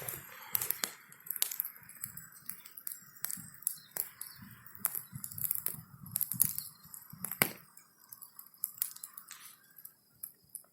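Bonfire of branches crackling, with irregular sharp cracks and pops over a steady hiss that fades near the end.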